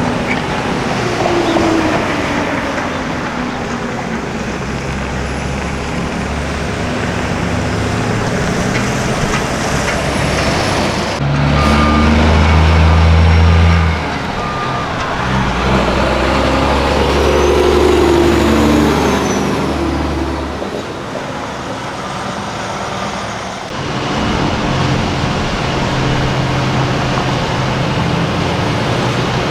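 Heavy diesel semi trucks driving past one after another, their engines running at a loud, steady level. The sound changes abruptly about 11 seconds in and again near 24 seconds. Between about 15 and 20 seconds one truck's engine note rises and then falls as it goes by.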